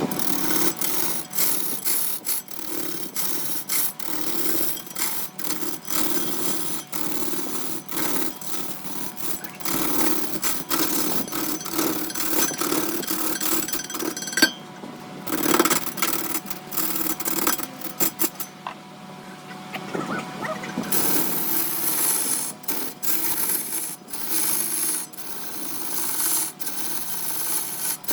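Wood lathe turning a large workpiece while a turning tool cuts and scrapes the wood, with many irregular sharp clicks and knocks over a scraping hiss.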